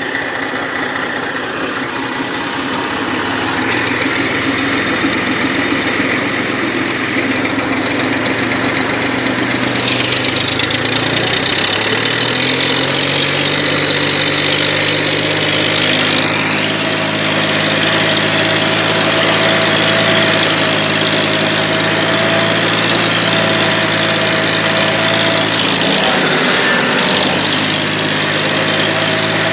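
Tractor engine running, uneven at first, then rising in speed about a third of the way in and holding steady at a higher pitch, with a brief dip in speed near the end.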